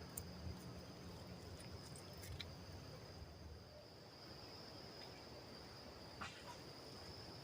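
Insects, such as crickets, trilling in one steady high-pitched tone, with a few faint clicks or taps, the clearest about six seconds in.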